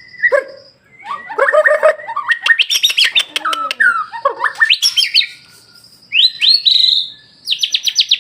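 White-rumped shama (murai batu) in full, nonstop song: loud, varied phrases of clear whistles, fast trills and sweeping notes, broken by two short pauses and ending in a quick run of repeated notes.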